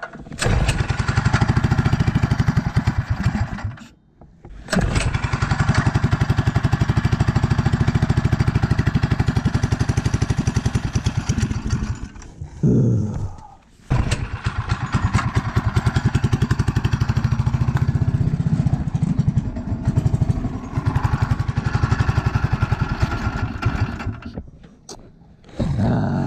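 A go-kart's small petrol engine running rough with a fast firing beat, cutting out about four seconds in, again around twelve seconds with a falling pitch as it dies, and once more near the end, catching again each time. It will not keep running; the owner puts the trouble down to the carburettor.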